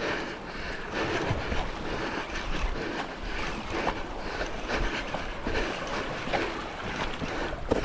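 Sea waves washing on a rocky shore with wind buffeting the microphone, a steady rough rush with small irregular splashes.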